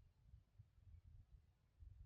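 Near silence, with only a faint, uneven low rumble.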